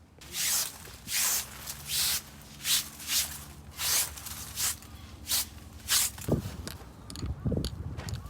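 Footsteps crunching at an even walking pace, about nine steps. After about six seconds the steps stop and give way to a few low thuds and small knocks.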